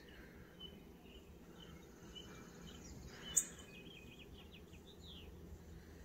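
Faint, scattered chirps and short calls of small birds over a steady low background hum. About three and a half seconds in comes a short, sharp high sound, the loudest moment, followed by a quick run of ticking chirps.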